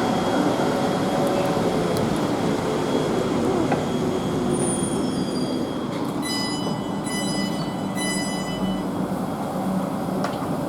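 South Western Railway Class 444 electric multiple unit running into the platform and slowing, a steady rumble of wheels and motors. A high-pitched pulsing tone sounds from about six seconds in to about nine seconds.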